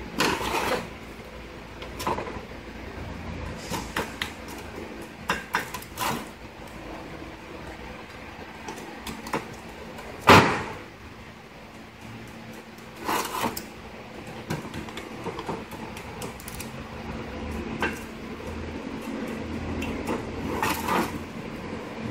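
Scattered knocks and clicks of parts and hand tools being handled while an Autochlor motor is taken apart, the loudest knock about ten seconds in, over a steady low hum.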